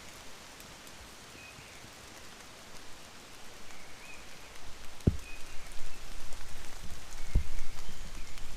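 Rain pattering, growing louder from about halfway through, with two low thumps in the second half.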